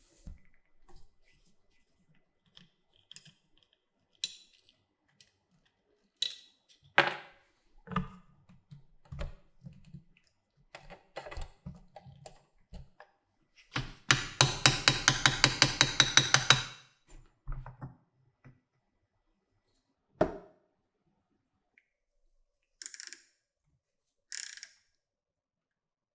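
Workshop handling sounds: scattered clicks and knocks of tools and small parts. A little past the middle comes a fast ratcheting rattle lasting nearly three seconds, the loudest sound here, and near the end there are two short hisses.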